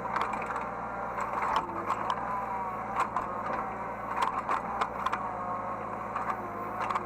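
Hydraulic excavator running, heard from the cab: a steady engine hum under a hydraulic whine that rises and falls in pitch as the machine works, with frequent sharp clanks and knocks.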